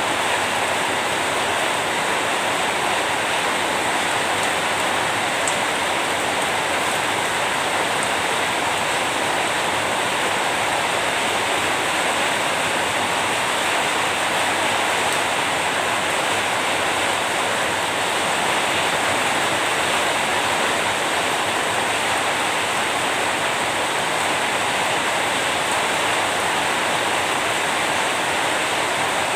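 Steady heavy rain: a dense, even hiss that holds level throughout, with no single drops or thunder standing out.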